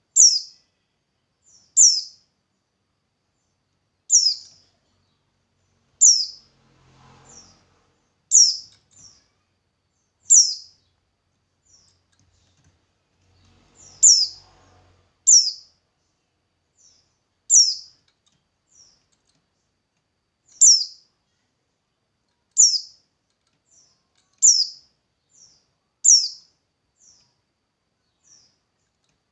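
A single songbird repeating one short, high chirp that drops in pitch, about once every two seconds, with fainter short chirps between the loud ones.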